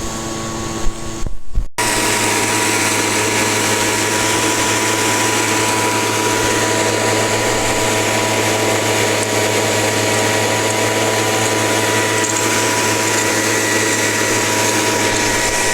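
Dry washer running steadily close up: an even, loud machine noise with a constant hum. It cuts in abruptly, louder, about two seconds in.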